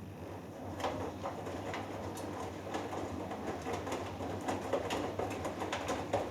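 Hoover Dynamic Next washing machine in its wash phase: a steady motor hum, then from about a second in the drum turns and the wet cotton load and water slosh and thud irregularly.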